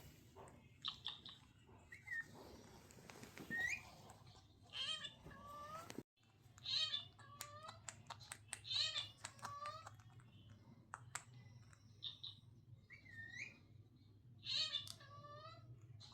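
Pet parrot giving short, pitched calls about every two seconds, with small clicks in between.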